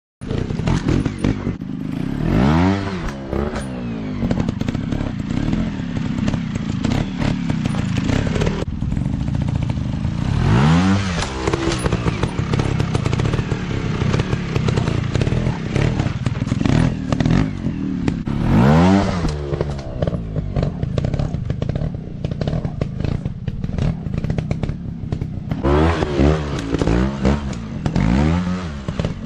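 Dirt bike engines running off-road, revving up and easing off about four times, with clatter and rattling throughout.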